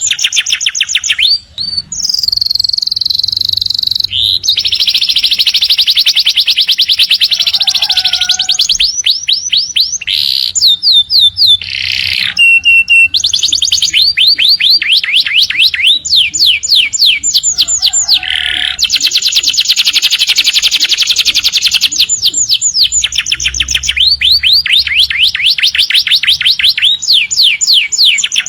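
Domestic canary singing a long, almost unbroken song of fast trills: runs of quickly repeated notes, many sweeping downward, between stretches of held, buzzy notes, with only brief pauses.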